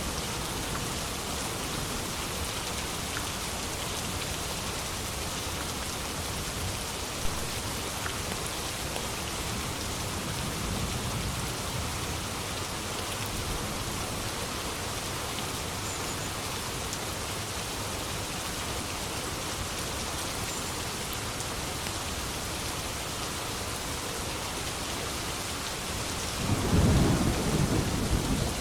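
Steady rain falling, with low rolling thunder: a faint rumble about ten seconds in and a loud rumble near the end. A single sharp tap sounds about seven seconds in.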